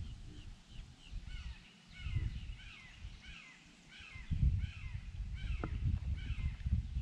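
A bird calling over and over, a run of short falling notes at about three a second, over a low rumbling noise.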